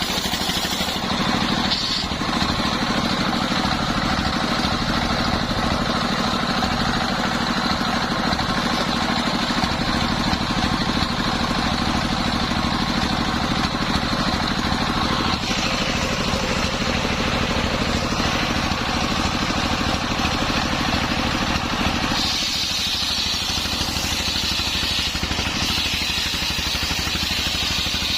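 Homemade engine-driven circular saw running steadily while sawing a very hard coconut-palm log into beams. Its tone shifts about 15 s in and again about 22 s in.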